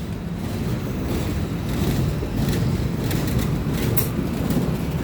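Steady low rumble of a potato unloading station, with scattered knocks and rattles as the load of potatoes is dumped from a tipped trailer.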